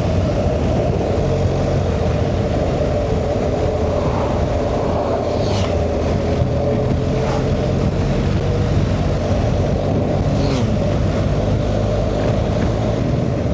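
BMW R 1250 GS Rallye's boxer-twin engine running steadily at a slow road speed, with road and wind rush.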